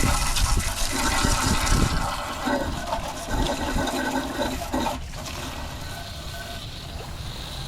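Water splashing and running as oily lamp parts are rinsed under a hose. Loud and splashy at first, it drops to a quieter, steadier run about five seconds in.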